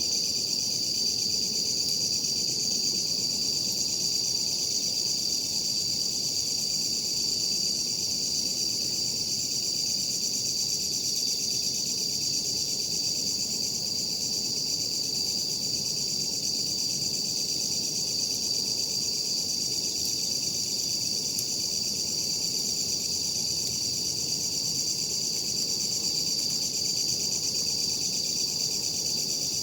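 Night insects, crickets, trilling in a steady, unbroken high-pitched chorus, with a faint low hiss beneath.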